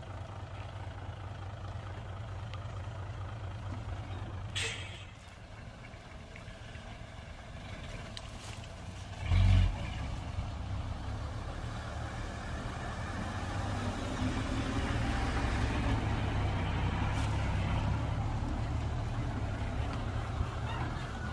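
Heavy diesel earthmoving machinery running with a steady low rumble. There is a short sharp sound about four and a half seconds in and a heavy thud about halfway through, the loudest sound. The engine then grows louder as it revs up and down.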